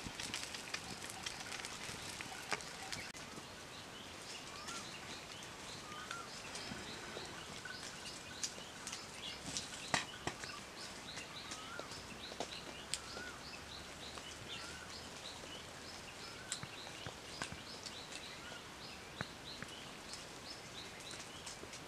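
Birds chirping: short high calls repeat about every half second, with a few lower curling whistled notes, over a steady background hiss. Scattered sharp clicks come through, the loudest about ten seconds in.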